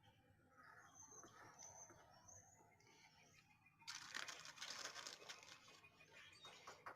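Faint high bird chirps in the first half, then from about four seconds in a louder scratchy rustling with small clicks, like dry clippings or paper being handled.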